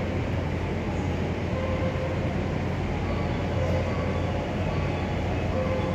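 Electric commuter train running, a steady rumble without breaks.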